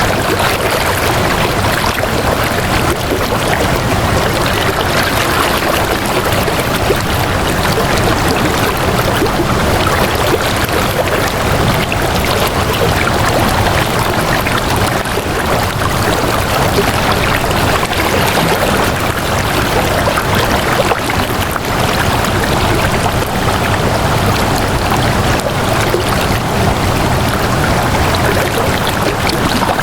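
Flowing water rushing steadily and evenly, like a stream, with no breaks or changes.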